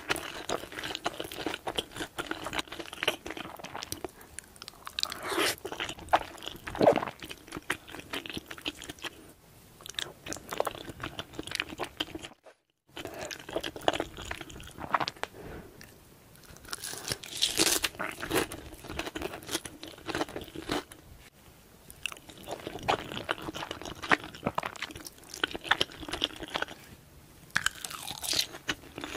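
Close-miked ASMR eating: a person chewing and biting mouthfuls of creamy Alfredo spaghetti and sauced fried chicken, with wet mouth sounds and crunchy bites in an uneven run. The sound drops out completely for a moment about midway.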